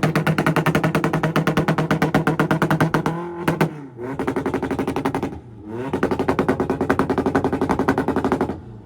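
Honda Civic engine held on a two-step launch limiter, crackling with rapid machine-gun-like pops from the exhaust. Twice the revs fall away and climb back onto the limiter, and the popping cuts off just before the end.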